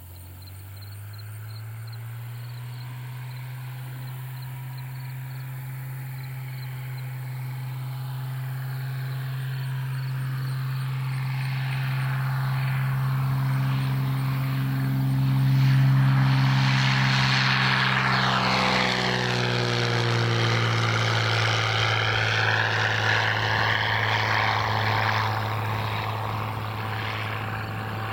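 Cessna 182 single-engine propeller airplane departing at full takeoff power. Its steady engine drone grows louder as it approaches, is loudest about sixteen seconds in, then drops in pitch as it passes and slowly fades while climbing away.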